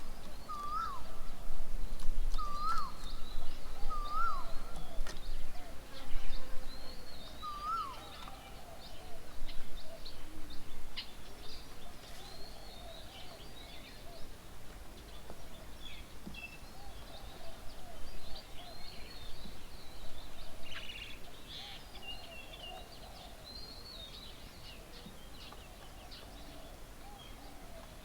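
Several birds calling: one bird repeats a short, hooked call about five times in the first eight seconds, over scattered high chirps from other birds that go on throughout and thin out near the end.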